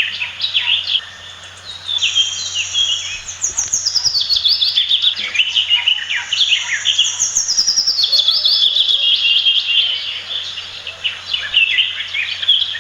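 Pied fantails chirping: a dense, continuous stream of rapid, high-pitched chirps and short falling notes.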